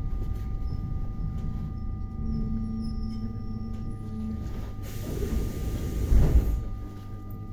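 Electric multiple unit heard from inside the carriage: a low rumble with steady electrical hum tones, then about five seconds in a short hiss and a heavy thump, after which the rumble falls away.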